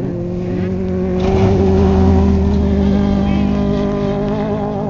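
Off-road truck engine running hard under throttle, its steady drone swelling louder about a second in and then easing off.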